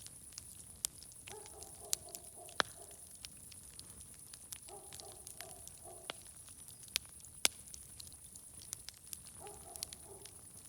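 Open fire crackling, with irregular sharp pops and snaps of varying loudness, over a steady high hiss. A short, low pulsing animal-like call repeats about every three and a half seconds.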